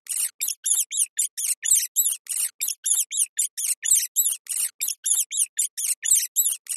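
A small animal squeaking: a rapid, even series of short, high-pitched squeaks, about four or five a second.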